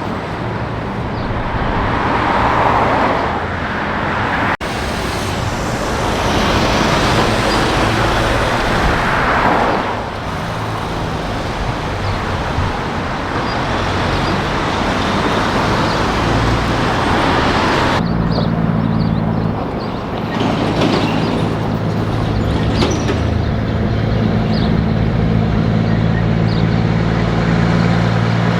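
Highway traffic: trucks and cars passing, their tyre and engine noise swelling and fading, with abrupt breaks where the recording is cut. From about two-thirds of the way in, a heavy truck's diesel engine drones steadily and dominates.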